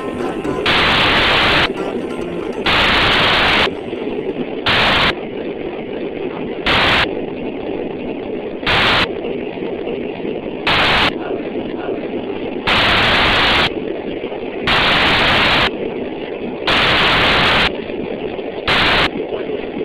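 Cicadas buzzing in repeated hissing pulses, one about every two seconds, some about a second long and some much shorter, over a steady lower buzz.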